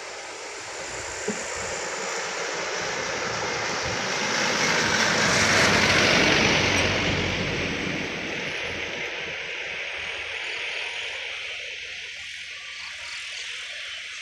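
A vehicle passing by, a rushing noise that swells to a peak about six seconds in and then fades away.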